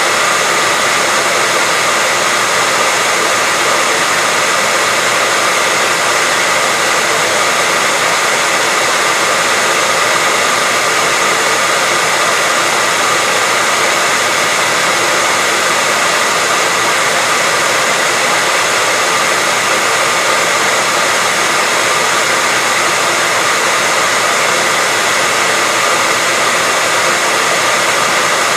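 Hair dryer blowing steadily, an unbroken airy hiss with a faint steady whine on top, used as white noise to settle a baby to sleep.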